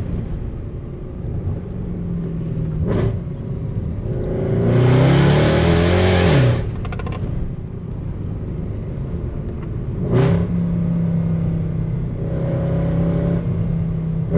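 Mercedes C63 AMG W204's M156 V8 with long-tube headers and a stainless steel exhaust, running loudly while driving. It cruises steadily, then about five seconds in it pulls hard, rising in pitch and falling back. There are short sharp blips near three and ten seconds in.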